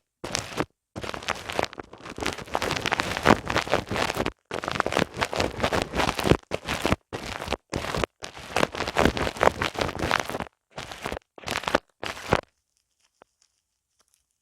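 Hands rubbing and scratching right against the microphone in an ASMR ear massage, a dense close rustling that comes in runs of a second or two with short breaks. It stops about twelve seconds in.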